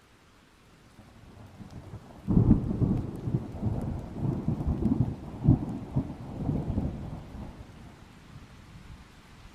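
Thunder: a low rumble builds, breaks into a loud clap about two seconds in, rolls on in a series of swells, and dies away near the end.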